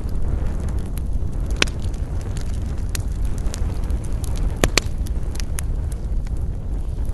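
Wood campfire crackling, with scattered sharp pops and snaps over a steady low rumble. Two louder pops come close together a little past the middle.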